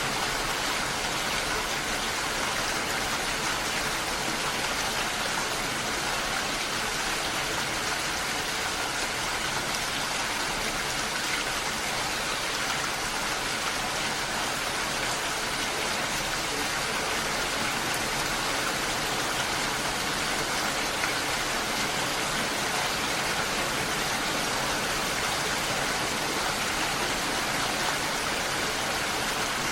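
Steady, unbroken hiss of water, rain or rushing water, at an even level throughout.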